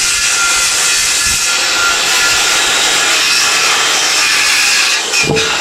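Power saw cutting through lumber: a loud, steady cutting noise with a high whine, easing off near the end.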